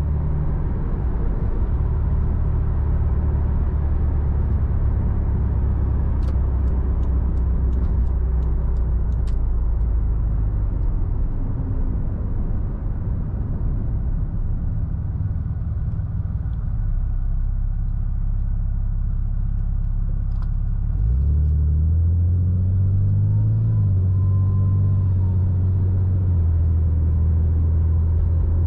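Toyota Supra MK4's 2JZ straight-six engine on the move: a steady low drone at first that eases off to mostly road noise, then a sharp rise in engine pitch about two-thirds of the way through as it accelerates, after which it holds a strong steady note.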